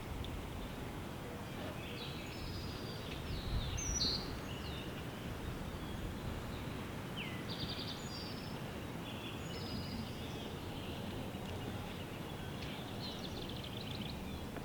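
Songbirds singing over a steady rumble of wind: one bird repeats a short song, a falling note then a fast trill, about every eight seconds, with other chirps in between. A brief louder rumble comes about four seconds in.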